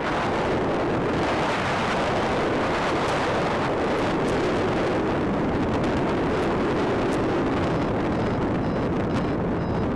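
Strong wind rushing over the microphone: a steady, loud roar of air noise with no break.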